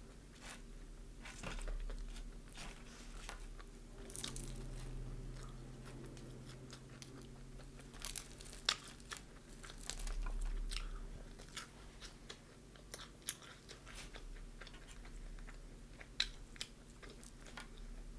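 Biting into and chewing crispy deep-fried chicken, with irregular sharp crunches of the fried coating between softer chewing.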